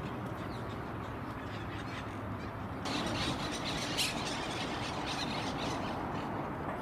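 Monk parakeets squawking, louder from about three seconds in, with one sharp call about a second later.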